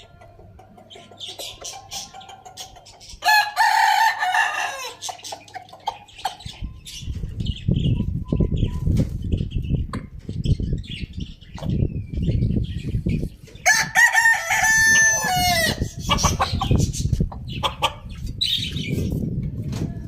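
Roosters crowing twice, about three seconds in and again near the three-quarter mark, with hens clucking between the crows. A low rumbling noise sets in about a third of the way through and continues underneath.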